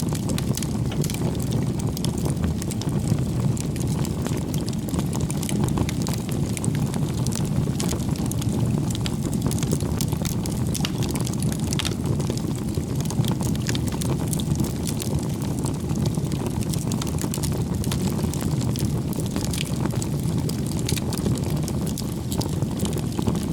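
Bonfire burning: wood crackling and popping in quick, irregular clicks over a steady low rumble of the flames.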